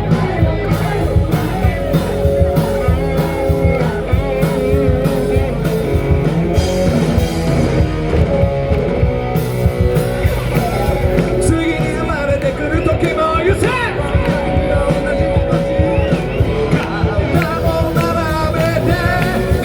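Live rock band playing a Japanese rock cover through a PA: guitars and drums with a singer, loud and continuous.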